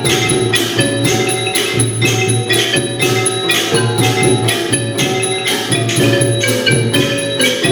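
A Thai traditional music ensemble playing, with pitched notes from struck instruments over a steady beat of sharp strokes about twice a second.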